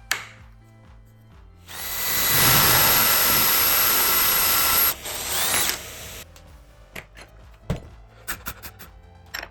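A power tool's motor runs steadily with a high whine for about three seconds and cuts off. It runs again briefly for about a second, followed by a few sharp clicks and knocks.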